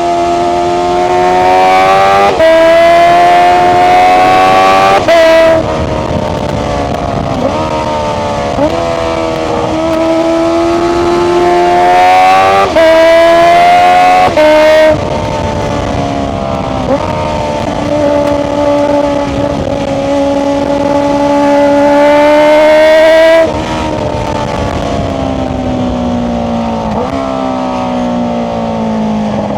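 Honda CBR650R's inline-four through an Akrapovic exhaust with the dB killer removed, under hard throttle. The revs climb steeply and loudly three times, each ending in a sudden drop, and fall away between with several short throttle blips.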